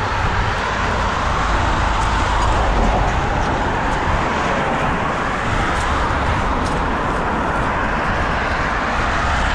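Steady rush of wind on the microphone of a moving bicycle, mixed with road traffic noise.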